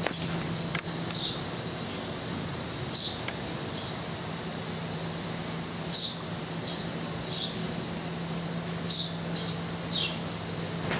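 A small bird chirping repeatedly: short, high, downward-sweeping chirps, about ten of them, some in quick pairs, over a steady low hum.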